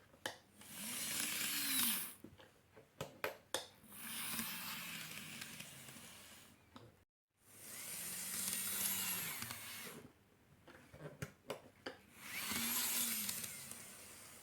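Small electric motor and gear train of a KATO N-gauge powered model railway car whirring in four short runs, each rising and then falling in pitch as it speeds up and slows down, with sharp clicks between runs.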